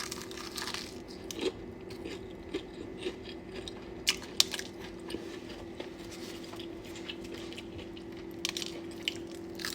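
Close-up eating sounds: a person biting into and chewing crispy fried chicken, with scattered crunches. A steady low hum runs underneath.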